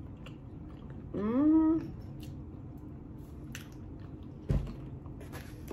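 A person chewing a mouthful of pizza with lips closed, with small wet mouth clicks. About a second in there is a short rising hummed "mm", and a low thump comes near the end.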